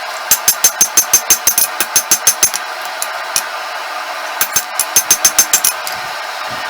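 Hand hammer striking a hot damascus steel bar on an anvil, about five ringing blows a second in two runs with a pause and a couple of single blows between, as the bar is drawn out. A steady forge blower noise runs underneath and is left alone after the last blow.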